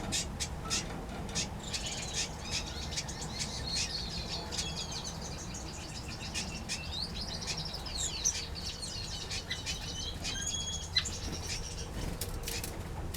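Small aviary finches chirping with many short, high, thin calls, busiest through the middle, amid scattered wing flutters and clicks as the birds move about.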